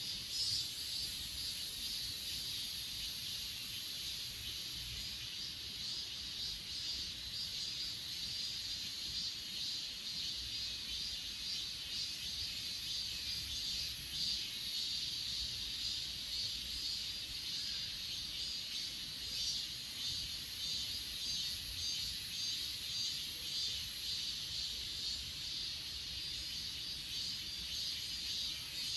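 A steady chorus of crickets and other grass insects chirping in the evening-style night chorus, a dense pulsing trill in one high band with a second, even higher band of insect song above it.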